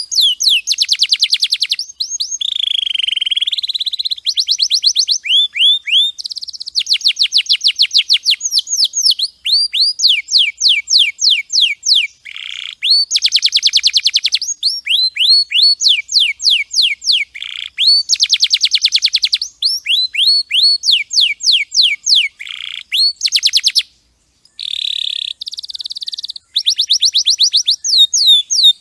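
Domestic canary singing a long song of rapid high trills, each a quick run of one repeated note, switching to a new trill every second or two, with a brief pause near the end.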